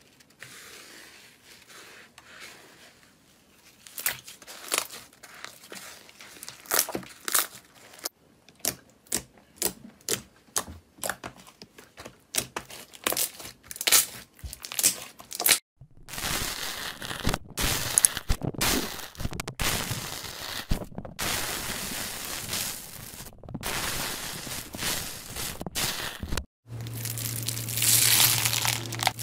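Slime being pressed, poked and squished by hand: a run of sharp crackles and pops, then denser crinkly squishing broken by short pauses. A steady low hum joins in near the end.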